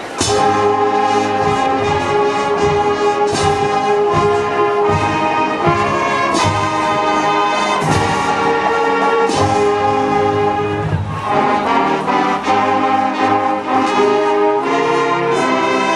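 Marching band playing its alma mater, brass sounding slow held chords that begin right at the start.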